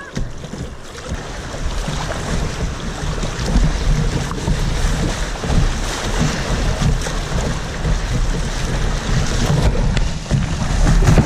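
Rushing rapids water around a tandem kayak, with wind buffeting the microphone, growing louder about two seconds in.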